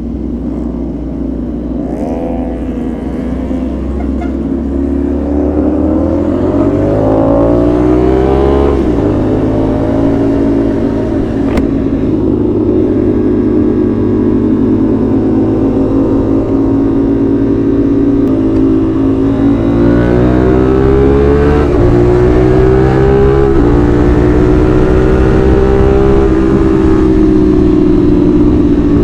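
CFMoto 450SR's parallel-twin engine with a 270-degree crank, riding along under load. Its pitch climbs several times as it revs up, and the sound grows louder over the first ten seconds.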